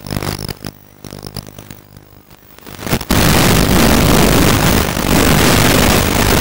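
Onboard audio from a radio-controlled model airplane in flight: the motor and propeller running with wind rushing over the mounted camera's microphone. About three seconds in it suddenly becomes much louder, a dense rushing noise that holds to the end.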